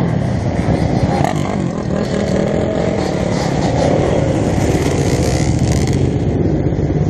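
Dirt bike engine running loudly and steadily.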